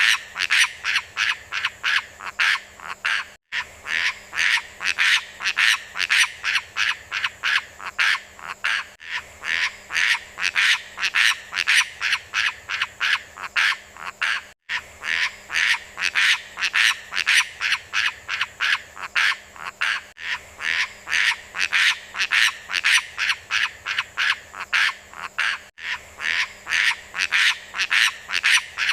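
Beo lumut bird giving rapid, evenly repeated harsh call notes, about three a second, on a recording that loops every five and a half seconds or so.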